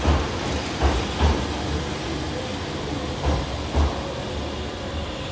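Sanyo 5000 series aluminium train pulling into the platform and slowing, its wheels thudding in pairs over rail joints under a steady rumble. The last pair of thuds comes just before four seconds in, as the rear car passes, leaving a steady hum.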